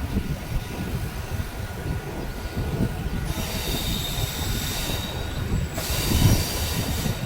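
Mumbai suburban local train running with a steady low rumble; about three seconds in its wheels start to squeal high on the rails, a long squeal and then a second one that stops shortly before the end.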